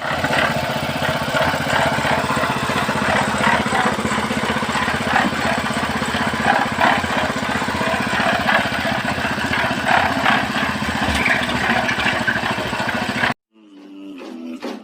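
An engine running steadily, with irregular clicks and clatter over it. It cuts off abruptly about 13 seconds in, and faint music fades in near the end.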